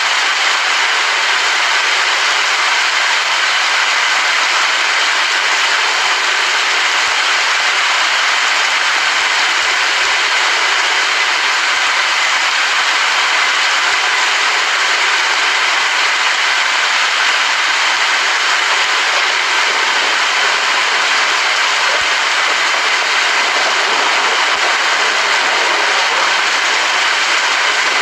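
Steady rain, a dense, even hiss that does not change, with no thunder.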